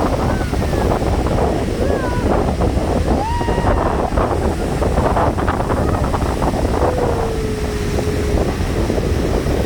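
Large sea waves breaking and surf washing up the shore, with strong wind buffeting the microphone.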